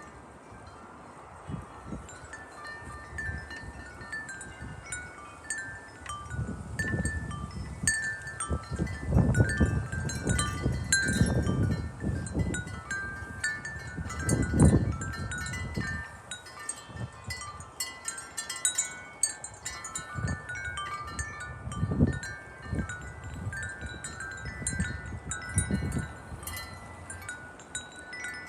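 Wind chimes ringing irregularly in gusty wind, many short overlapping tones. Low rumbles of wind gusting on the microphone are loudest through the middle and come back twice near the end.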